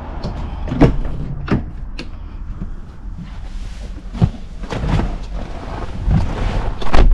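A car's low, steady rumble with a series of sharp knocks and clicks, like doors and car fittings being handled, the loudest one near the end.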